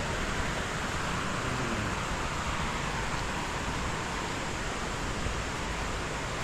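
Steady rush of flowing water, an even hiss and roar with no breaks.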